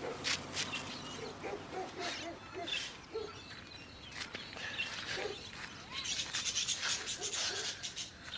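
Birds chirping in short, scattered calls, with brief clicks in between.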